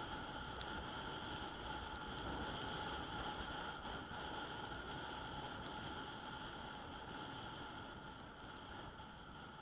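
Yamaha NMAX 155 scooter's single-cylinder engine idling with a steady hum that fades slightly near the end.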